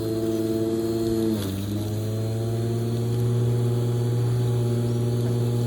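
Lawn mower engine running steadily, its pitch dipping briefly about a second and a half in and then coming back up.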